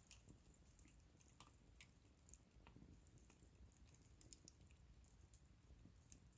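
Faint crackling of a wood bonfire: scattered small pops and clicks at irregular intervals over a low background hum.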